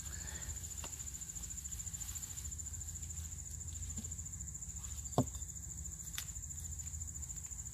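Crickets trilling steadily at a high pitch. A few faint clicks and one sharp knock about five seconds in, from digging in the soil.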